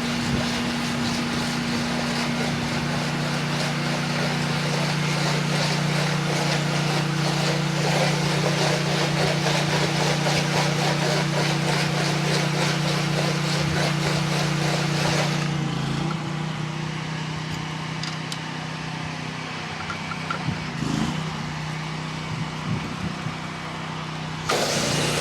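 Honda-powered 8 gpm pressure washer running steadily, its engine hum under the hiss of the spray. About fifteen seconds in the hiss drops away and the engine note changes, with a few light knocks, and the full spray sound comes back near the end.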